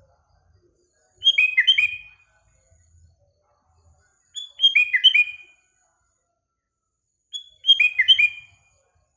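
Sooty-headed bulbul (kutilang) singing: three short, near-identical phrases about three seconds apart, each a quick run of falling whistled notes.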